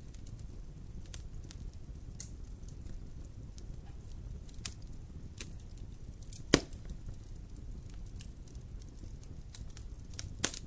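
Wood fire in a fireplace crackling: scattered sharp pops and snaps over a low steady rumble, with one loud pop about six and a half seconds in and another near the end.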